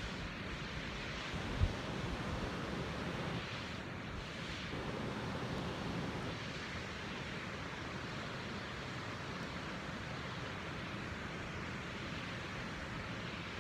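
Waterfall on a mountain stream rushing steadily. A single brief low thump comes about one and a half seconds in.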